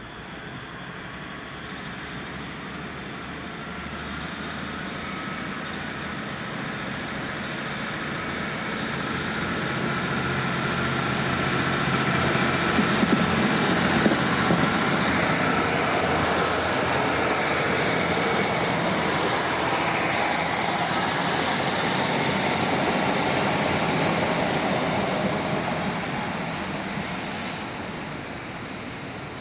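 Diesel train running past, growing louder over about twelve seconds, holding, then fading near the end. High whining tones sit over the engine and wheel noise.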